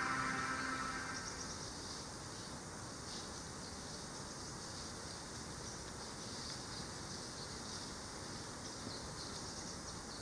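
Insects chirping in a steady, high-pitched chorus, with background music fading out in the first second or two.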